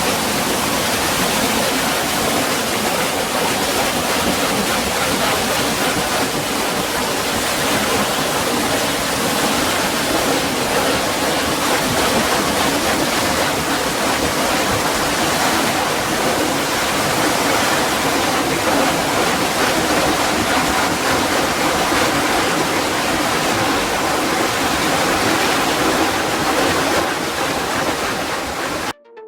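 Water rushing and splashing steadily, like a small waterfall or fast stream; it cuts off abruptly just before the end.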